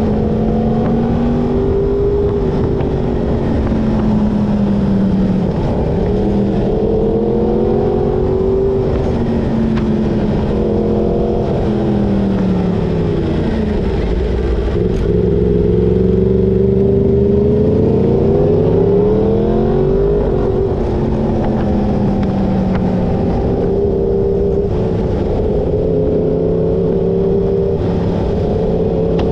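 Yamaha crossplane inline-four sport motorcycle engine under way, its note climbing under throttle and dropping sharply about three times as the rider rolls off and downshifts through the bends.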